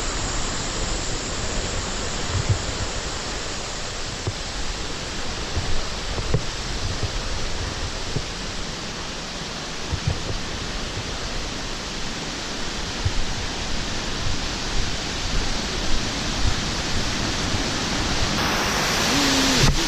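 Steady rushing of running water, with scattered low thumps; the sound gets brighter shortly before the end.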